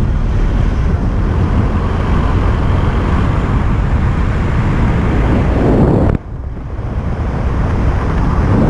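Steady wind rumble and buffeting on the microphone, heaviest in the low end, with a sudden drop in level about six seconds in before it builds back up.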